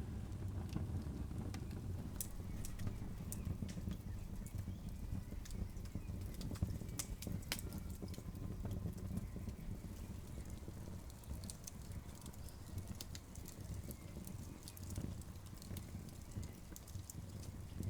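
Open campfire crackling: irregular sharp pops and snaps over a steady low rumble.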